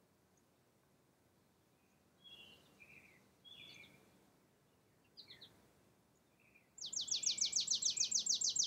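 Songbirds calling outdoors: a few short high chirps, then, about seven seconds in, a loud rapid trill of downward-sweeping notes, about eight a second.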